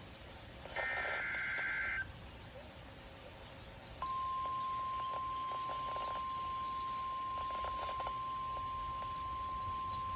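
NOAA Weather Radio emergency alert: a short burst of warbling data tones (the digital alert header) ends about two seconds in. About two seconds later the steady, single-pitch warning alarm tone starts and holds, signalling that a warning is about to be broadcast. Faint bird chirps sound in the background.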